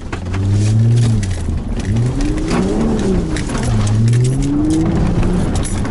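Audi A6 Allroad engine heard from inside the cabin, its revs rising and falling several times as the car drives on a dirt track. Scattered clicks run throughout.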